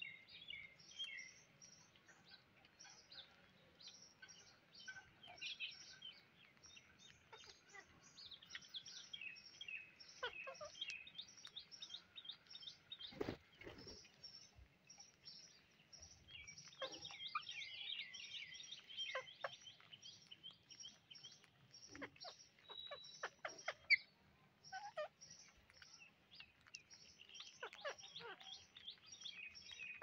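Faint chirping of birds: many short high calls, some in quick runs, throughout. A couple of sharp thumps come near the middle.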